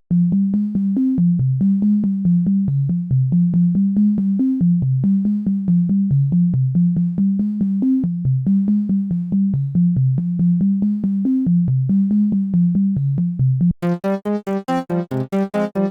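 u-he Triple Cheese software synthesizer playing a low bass-register sequence of fast, evenly repeated short notes that step between a few pitches. About fourteen seconds in it switches abruptly to a brighter, choppy pulsing patch, the next preset.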